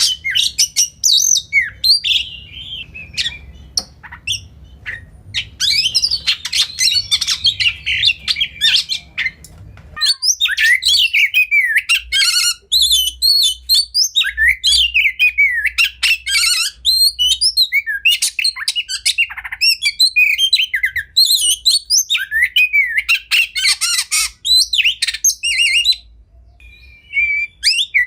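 Oriental magpie-robin (kacer) singing a long, varied song of loud whistles, chirps, harsh notes and rapid trills, with only short pauses. A low background hum stops abruptly about ten seconds in.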